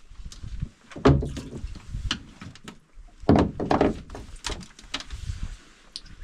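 Irregular knocks and thumps of handling on a fishing boat, the loudest about a second in and again about three seconds in.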